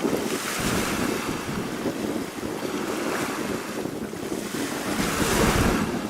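Small sea waves washing up and draining back over small pebbles in repeated surges, the loudest near the end, with wind buffeting the microphone.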